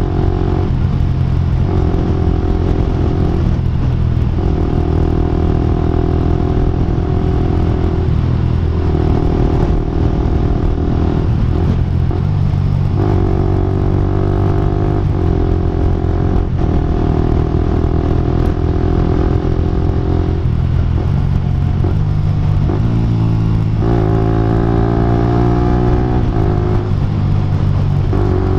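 Exhaust note of a Suzuki 125 cc single-cylinder sport bike running through an aftermarket slip-on silencer. The note holds steady for a few seconds at a time, breaks off briefly, then picks up again at a different pitch.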